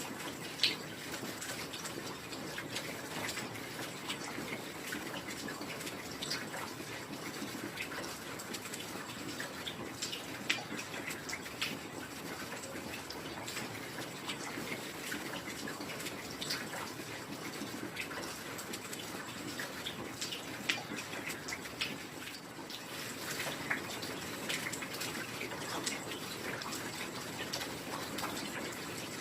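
Steady heavy rain falling, a continuous hiss dotted with sharp drops and drips pattering close by, a few of them louder ticks.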